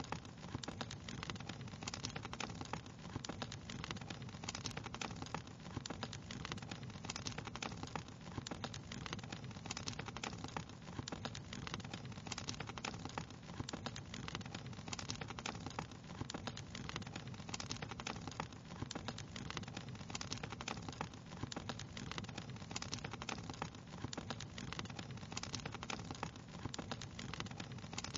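Wood fire crackling steadily, with many small pops and snaps over a low, even rushing of the flames.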